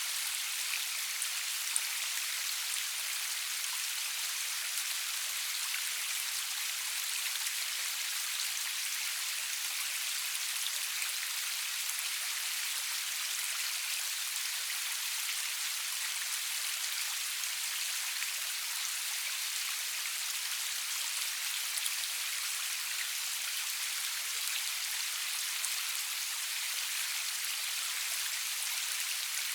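Steady rain falling: an even hiss carrying the high end, with scattered small drop ticks and no thunder.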